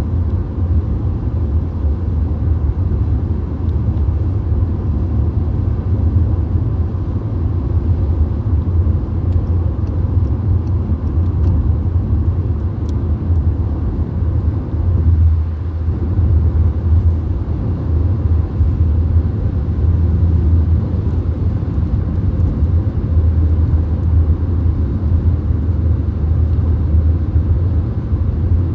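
Steady low rumble of a VW Golf at motorway speed: road and tyre noise with engine drone, heavy in the bass.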